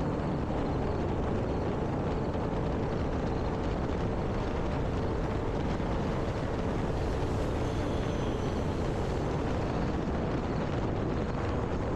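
E-Flite Air Tractor 1.5m radio-control airplane in flight: its electric motor and propeller drone steadily under a constant rushing noise.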